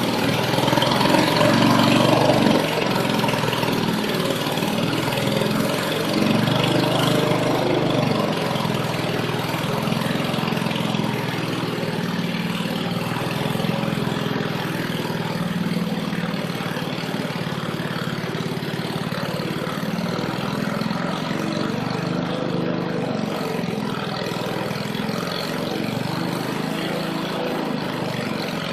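Vintage 1970 Ariens 5 hp snowblower's small single-cylinder engine running steadily, a little louder in the first several seconds and then easing slightly.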